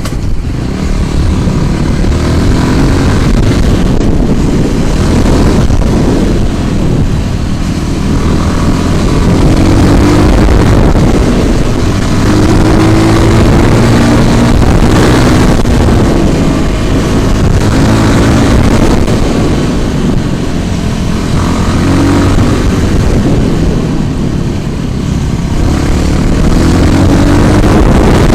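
Riding a scooter in road traffic: heavy wind buffeting on the microphone over a motor whose pitch rises several times as it speeds up.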